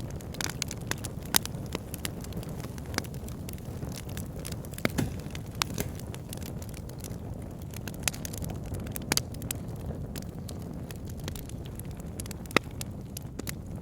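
Wood fire burning in a log burner: a steady low rumble of flames with irregular crackles and sharp pops from the logs, the loudest pop near the end.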